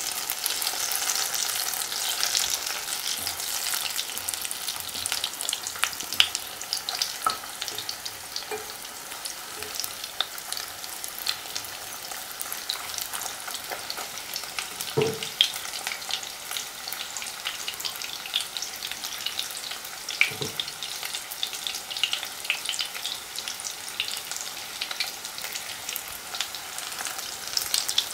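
Battered, breadcrumbed green tomato slices sizzling and crackling steadily in hot vegetable oil in a frying pan, with the clicks of a fork turning them and two louder knocks near the middle.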